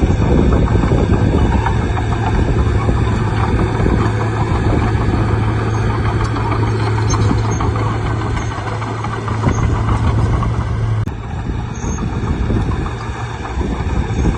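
Bulldozer's diesel engine running steadily, with a low, even hum that drops out suddenly about three-quarters of the way through.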